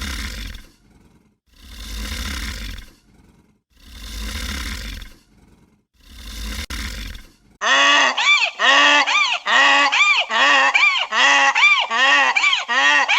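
Four slow, breathy rushes of noise about two seconds apart. Then, from a little past halfway, a goose honks loudly in a rapid run of calls, two or three a second.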